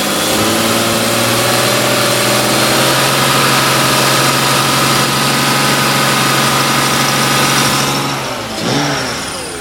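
2002 BMW 325Ci's 2.5-litre straight-six held at raised revs with the hood open: the revs step up just after the start, hold steady for about eight seconds, then fall back toward idle near the end.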